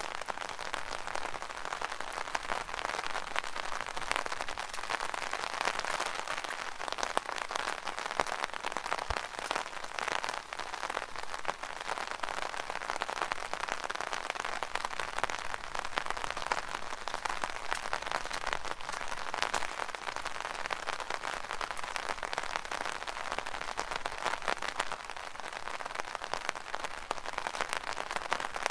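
Rain pattering steadily on an umbrella canopy, a dense even spatter of many small drop hits.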